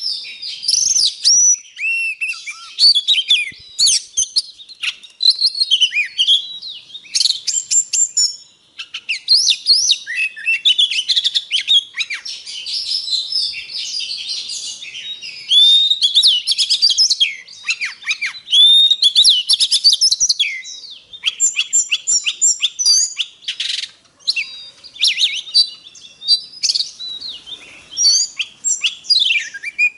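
Oriental magpie-robin singing a fast, varied song of whistled notes, rising and falling glides and short sharp notes, almost without pause.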